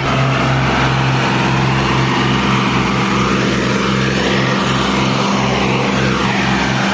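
Tractor diesel engine running steadily under load, hauling a fully loaded sugarcane trolley.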